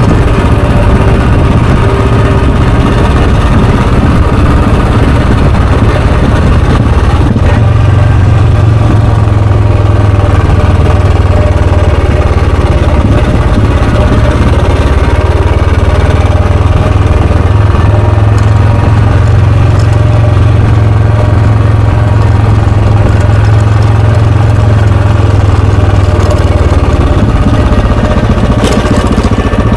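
Royal Enfield Bullet 350's single-cylinder, four-stroke, air-cooled engine and exhaust running loud and steady while the motorcycle is ridden, with no big rise or fall in revs.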